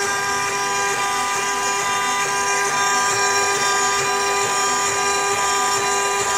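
CNC router running while engraving: a steady, high, many-toned whine from the spindle and drive motors.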